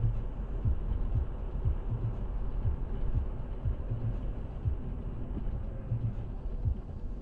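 Low road and engine rumble of a moving car picked up by a dashcam, with irregular low thumps.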